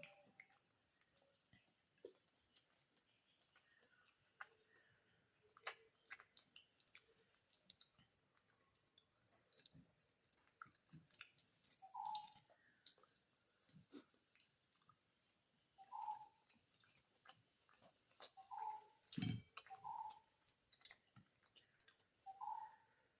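Close-up chewing of beef biryani, quiet and wet, with many small mouth clicks and a few short squeaky mouth noises. One louder knock comes near the end.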